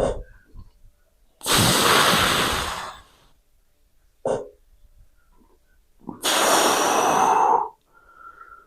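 A man breathing hard from exertion while lifting curls: two long, loud exhalations of about a second and a half each, with a short, sharp breath between them.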